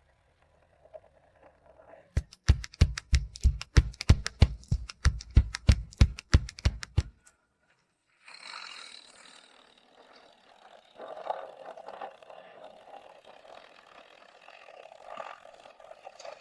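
A quick series of about twenty sharp, loud knocks, roughly four a second, lasting about five seconds. After a brief pause comes a rougher, steadier scraping noise.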